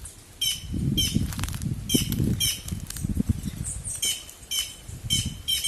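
White-naped jays (cancão, quem-quem) giving repeated harsh, squawking alarm calls, about two a second in runs with short pauses, with a low rustling rumble underneath in the first half. The calls are mobbing something hidden, which the speaker guesses may be a snake.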